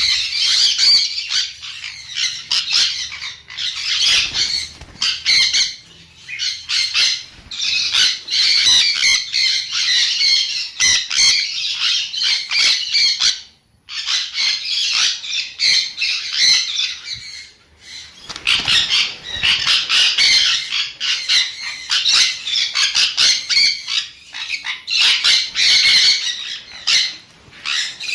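Sun conure screeching: rapid, harsh, high-pitched squawks in long bouts, with a brief pause about halfway through.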